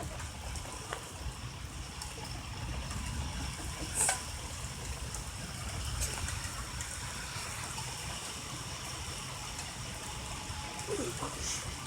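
Heavy rain falling steadily, with a brief sharp tap about four seconds in.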